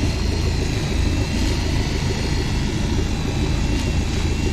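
Boat motor running steadily underway, a dense low rumble with a faint steady high whine above it.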